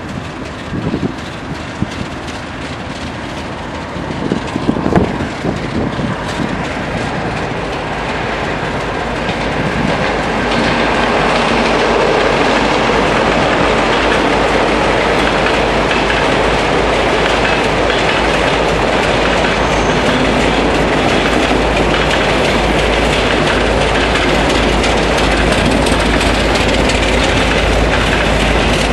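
2M62U diesel locomotive with a freight train rolling by. The sound builds over the first ten seconds or so, with a few sharp knocks early on, then settles into a steady loud rumble with the wheel clatter of the passing freight wagons.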